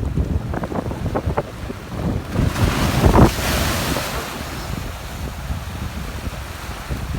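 Wind buffeting the microphone over the steady wash of surf, with a louder rush of noise about two and a half seconds in that lasts under two seconds.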